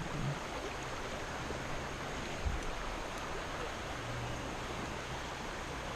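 Steady rush of a fast-flowing creek running high and muddy after rain, with a brief low bump about halfway through.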